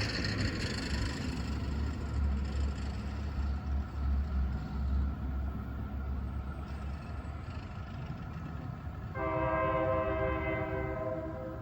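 Train horn sounding one held chord of several notes for about two seconds near the end, over a steady low rumble of a passing train.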